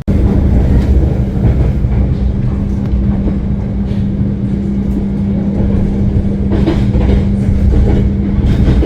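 Passenger train running, heard from on board: a loud steady rumble with a constant hum, and a few brief rattles of the wheels and carriage in the second half.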